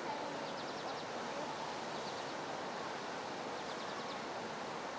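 Steady rushing noise of water churning in a canal lock chamber. A short high trill of quick ticks repeats about once a second over it.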